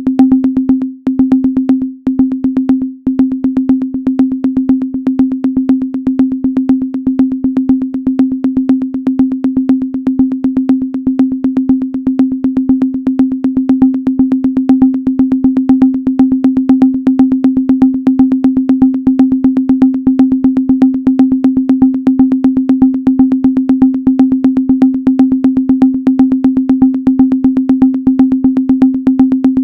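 Synthesized minimal electronic sound: a steady low sine-wave tone with a fast, even train of clicks over it. It drops out briefly three times about one, two and three seconds in.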